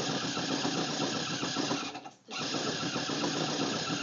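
Stuck truck's engine running with a fast, rattling texture; the sound drops out briefly about two seconds in, then the engine runs on.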